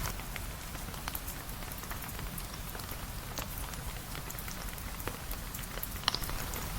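Steady rain falling, with scattered sharp ticks and a louder pop about six seconds in.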